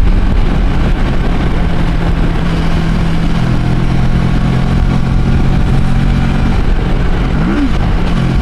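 Motorcycle engine running at a steady pace while riding, under a constant rush of wind and road noise.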